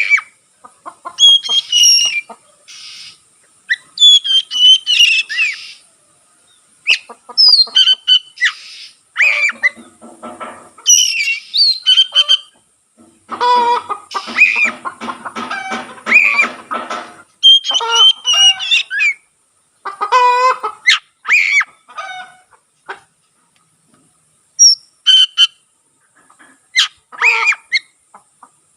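Oriental magpie-robin singing loudly in short, varied bursts of whistles and harsh scratchy notes, separated by brief pauses.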